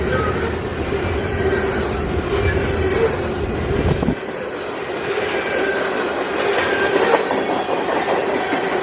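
Freight cars of a CSX manifest train rolling past, their wheels clicking over the rail joints, with faint wheel squeal. A deep rumble underneath drops away suddenly about four seconds in.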